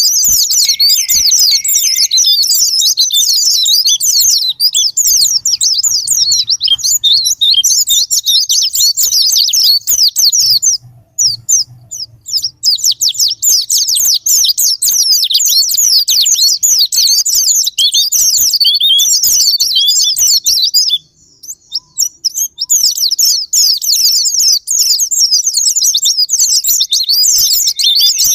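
White-eye (pleci) singing a fast, high, continuous twittering song of rapid chirps, with two brief pauses; the vigorous 'gacor' sparring song used to trigger other white-eyes into singing.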